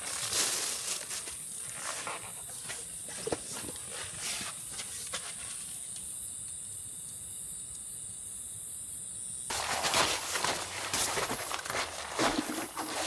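Rustling and handling noises with light knocks and clicks, turning denser and louder about nine and a half seconds in.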